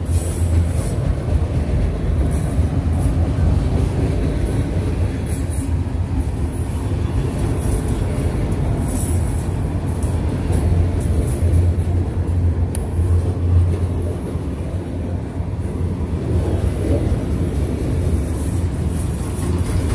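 Train rolling by: a steady rumble of wheels on rail, with high-pitched wheel squeal coming and going.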